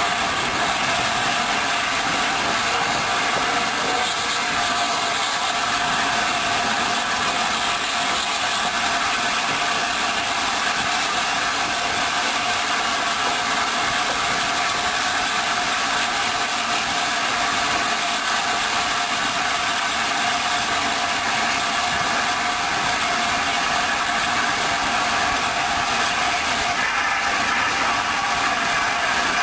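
Steady running noise of a train in motion, a continuous rumble with a light rattle and no clear changes.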